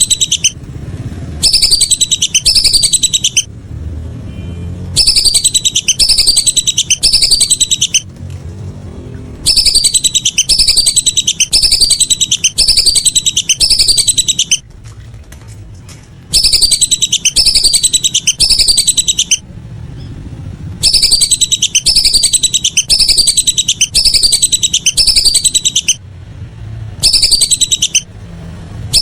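Lesser whistling duck (belibis) calls: high, falling whistles about two a second, in groups of three to six with short pauses between the groups.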